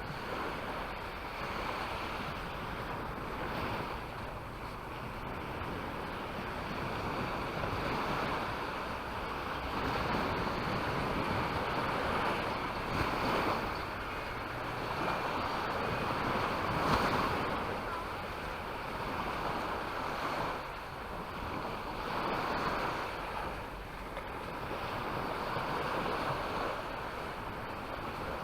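Sea waves breaking and washing ashore, the surf rising and falling every few seconds, with wind on the microphone.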